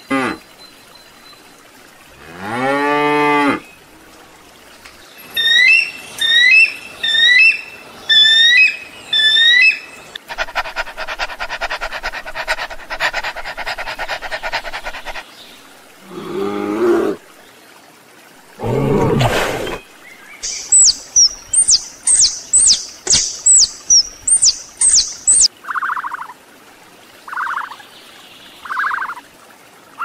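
A string of different animal calls one after another: a long, low water buffalo bellow near the start, then rows of short repeated squeaks, a dense buzzing trill, two low, harsh calls, a fast run of high chirps, and three short calls near the end.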